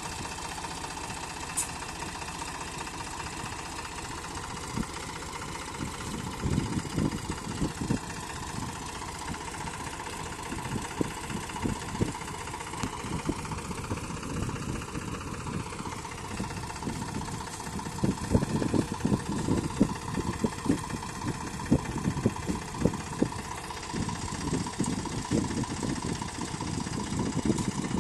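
Sonalika tractor's diesel engine running steadily, with irregular low thuds and rumbles coming and going in stretches, the heaviest about two-thirds of the way in.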